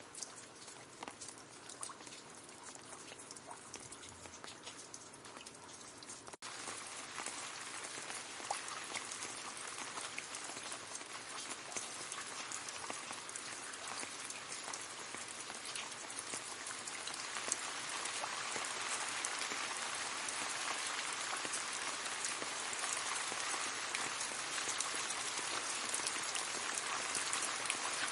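Gentle rain falling on leaves. At first it is sparse, separate drops ticking. After an abrupt cut about six seconds in, it becomes a denser, steady patter that gets louder about two-thirds of the way through.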